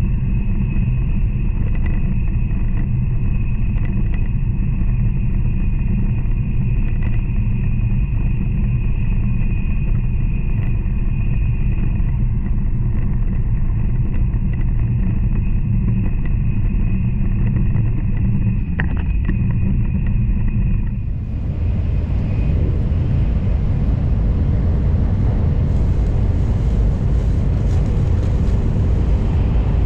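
N700 series Shinkansen running at speed, heard from inside the passenger car: a steady low rumble with a thin high whine. About two-thirds of the way through the sound changes suddenly to a broader, hissier rush.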